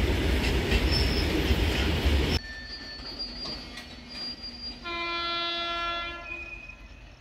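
An Indian Railways train passing close by, its wheels running loud on the rails with a high, thin wheel squeal; this cuts off abruptly a little over two seconds in. About two and a half seconds later a locomotive horn sounds once for about a second and a half, fainter than the passing train.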